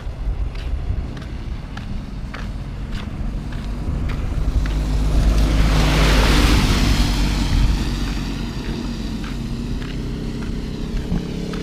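A motor vehicle passing by: its engine and tyre hiss swell to a peak about halfway through, then fade. Regular footsteps tick underneath throughout.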